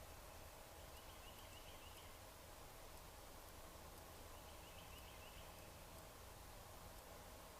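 Faint steady outdoor hiss and low hum, with a distant small bird singing a short chirping phrase twice, about a second in and again near the middle.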